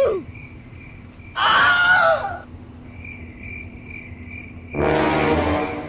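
Crickets chirping in a steady pulsing trill. Two loud voice-like cries cut across it, one about a second and a half in and a longer, buzzier one near the end.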